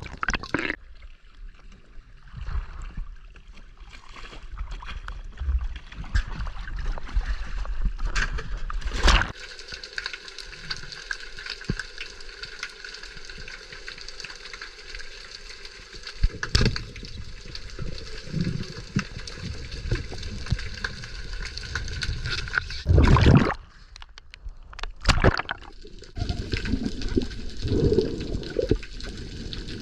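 Water gurgling and sloshing continuously, broken by several sharp knocks.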